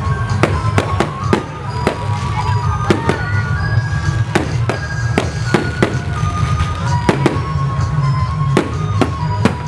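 Aerial fireworks bursting overhead in a string of sharp bangs, about two a second at uneven spacing, over a low rumble. Music plays behind them.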